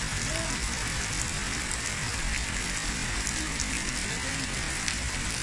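Heavy rain pouring down steadily: a dense, even hiss with scattered drop ticks over a low rumble.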